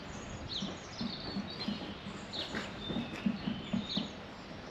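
Small songbirds chirping and singing in short phrases over a steady background hiss, with a run of soft low thumps in the second half.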